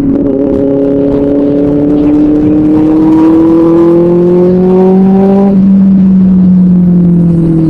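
Benelli 600i inline-four motorcycle engine through an SC-Project aftermarket exhaust, running loud with its pitch climbing steadily as it revs. About five and a half seconds in, the higher tones drop away and a lower, steadier note carries on.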